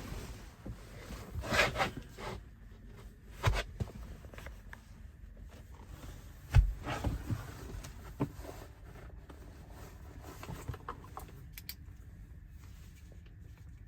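Irregular rustling and handling noise with scattered knocks and clicks as a person sets off on foot, with one heavy thump about six and a half seconds in.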